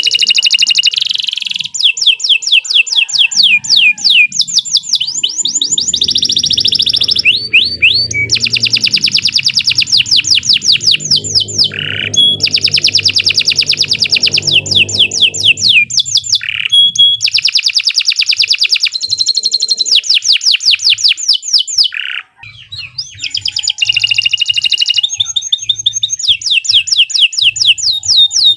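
Domestic canary singing in full, continuous song: long runs of rapid trills and rolls, phrase after phrase, with a brief break about two-thirds of the way through.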